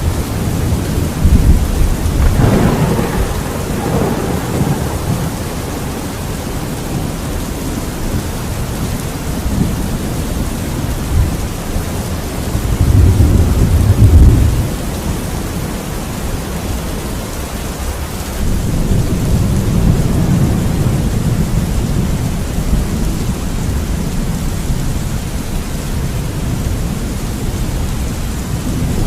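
Steady heavy rain with rolls of thunder rumbling through it, the loudest roll about halfway through and a longer one a few seconds later.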